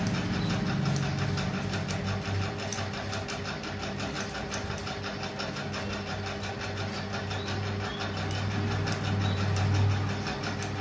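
Electric hair clipper buzzing steadily while cutting hair, with many short sharp clicks over the hum.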